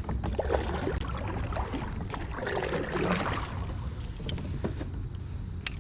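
Water moving against a kayak hull on a river, with a low wind rumble on the microphone and a few sharp knocks in the second half.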